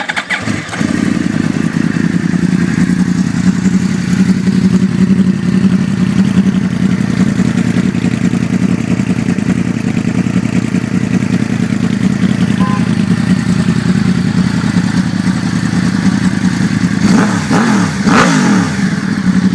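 A 2009 Yamaha R1's crossplane inline-four, fitted with carbon-fibre Yoshimura exhaust cans, starts and idles steadily, then is revved up and back down a couple of times near the end.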